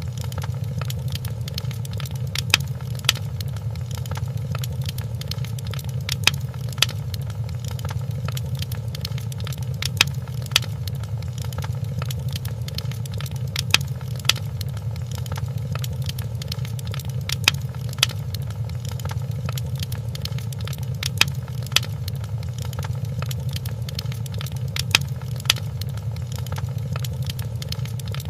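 Wood fire crackling in a fireplace over a steady low rumble, with small scattered snaps and a sharper pop about every four seconds.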